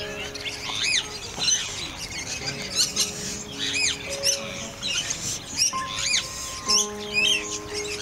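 Many quick, high bird chirps, a few every second, over background music of long held notes.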